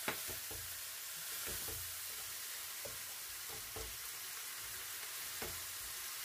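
Kimchi and ham sizzling in a hot nonstick wok as oyster sauce is added and a wooden spatula stirs them, with a steady hiss and a few utensil knocks and scrapes against the pan. The sharpest knock comes right at the start.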